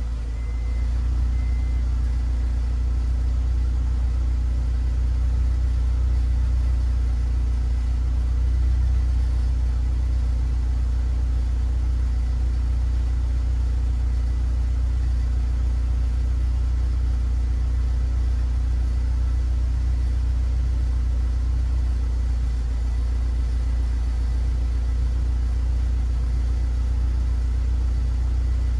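1997–2000 Honda CR-V's 2.0-litre four-cylinder engine idling steadily, a loud low hum with no changes in speed.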